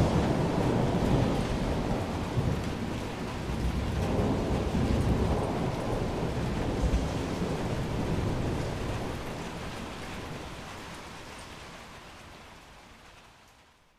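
Thunder rumbling over steady rain. The rumble slowly dies away through the second half until everything is almost silent at the very end.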